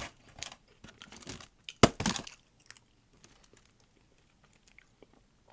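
Handling of a rock-hard, stale hush puppy and its paper food container: a sharp knock at the start and a louder one about two seconds in, then scattered small crinkles and clicks.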